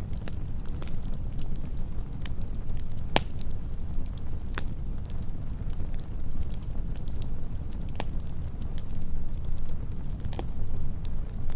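Campfire crackling, with scattered sharp pops (a few louder ones) over a low steady rumble, while a cricket chirps in short, high, evenly spaced chirps a bit faster than once a second.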